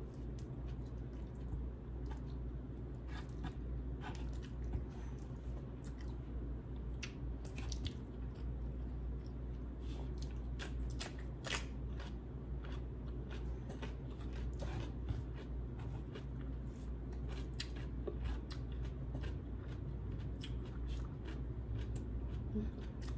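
A person eating chicken curry with rice close to the microphone: chewing and biting, with many short, irregular mouth clicks over a steady low hum.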